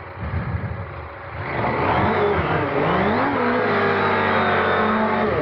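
Adventure motorcycle engine with a low rumble at first, then revved hard about a second and a half in as the bike pulls away, its pitch rising, dipping and rising again before it holds steady under throttle.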